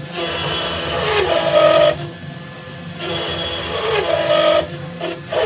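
SainSmart 4040 Pro CNC router carving a relief: the spindle and stepper motors run with a tone that rises and falls pass by pass, loud cutting stretches alternating with quieter moves about every two seconds.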